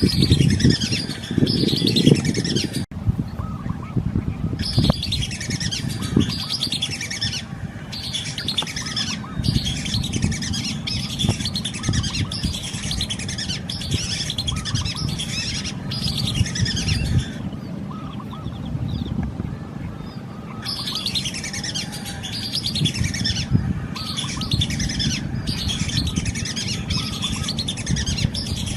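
Birds calling in rapid runs of high, falling chirps, in bursts of a few seconds with short breaks, over a steady low rumble.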